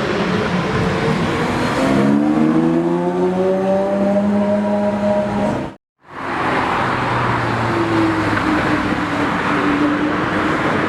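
A Lamborghini supercar engine accelerating, its note rising over a few seconds, then cut off abruptly about six seconds in. After the short gap, a car engine runs with a steadier, slowly wavering note.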